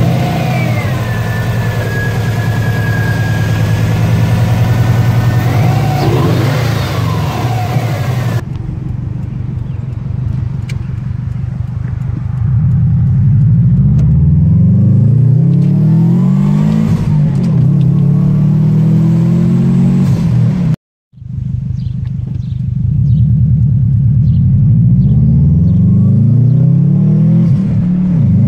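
A 2003 Subaru WRX's turbocharged flat-four, breathing through a new cold air intake with a pod filter, idling just after start-up with a high whine over it. Then, heard from inside the car, the engine revs up through the gears as it accelerates.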